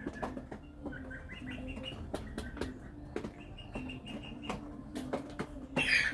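Chickens pecking at feed: an irregular patter of sharp beak taps, with soft, short clucking notes in between and one brief louder call near the end.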